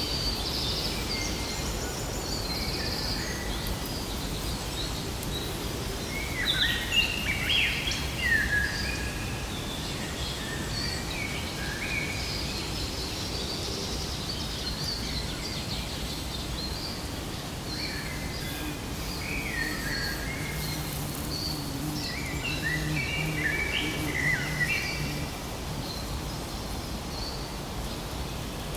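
Birds chirping and calling over a steady outdoor background hiss, with the busiest, loudest bursts of calls about a quarter of the way in and again past the two-thirds mark.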